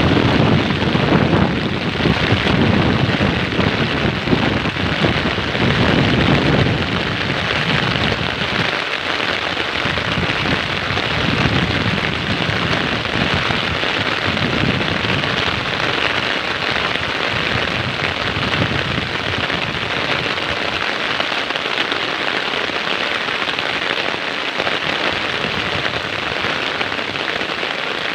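Heavy rain falling steadily, a dense even hiss, with low rumbles coming and going through the first several seconds.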